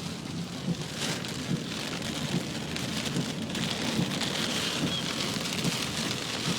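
Heavy rain falling steadily on a moving car, heard from inside the cabin.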